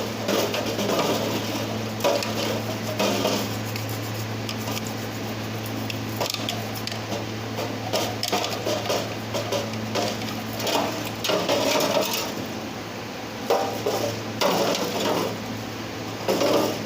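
Irregular metal scraping and clinking of hand tools on EGR valve parts as carbon deposits are cleaned off, over a steady low hum.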